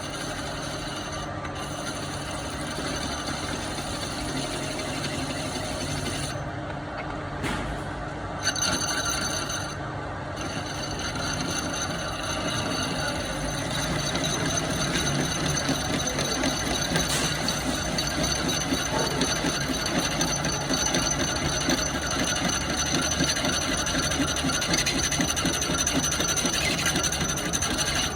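Metal lathe running, with the steady scraping and rubbing of a cutting tool working the spinning workpiece; the sound changes slightly after a break about eight seconds in.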